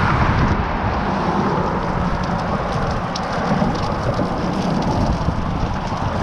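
Wind buffeting the microphone of a camera on a moving bicycle, a steady rumbling noise with the hiss of riding over the trail.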